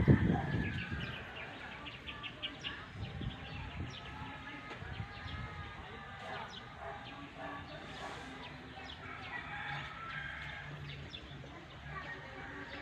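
Chickens and small birds calling, with many short chirps and clucks. A short, loud, low sound comes right at the start.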